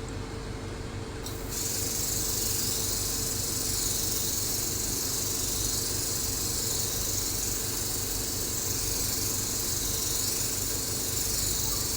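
Spray mist gun of a hydrofacial machine spraying a water mist: a steady high hiss that starts about a second in, over the steady low hum of the running machine.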